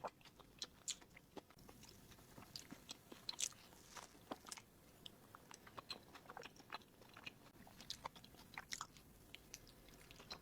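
Soft, sticky bánh su sê (glutinous tapioca cake with coconut) being chewed: faint, irregular wet mouth clicks and smacks.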